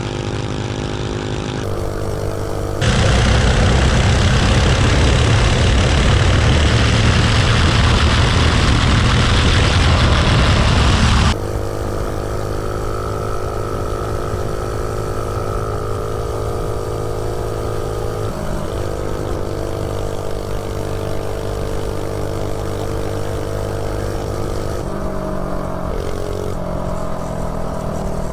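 Small single-cylinder 79cc LCT snowblower engine on a mini bike running under way, with J-B Weld standing in for its head gasket and running well. About three seconds in it turns much louder and rougher for some eight seconds, then settles back to a steady drone, with the pitch shifting near the end.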